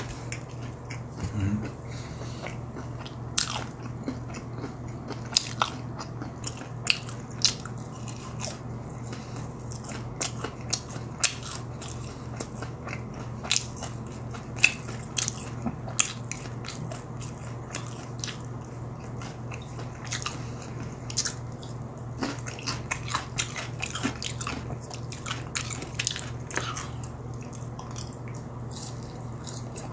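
A person chewing crispy fried chicken and fries close to the microphone. It is a long run of sharp, irregular crunches and mouth sounds, thinning out for a few seconds past the middle and again near the end.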